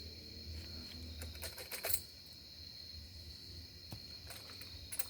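Steady night-time chirring of crickets, with a short run of light metallic clicks and rattles about one and a half seconds in and a couple of single ticks near the end, from the fan's parts being handled.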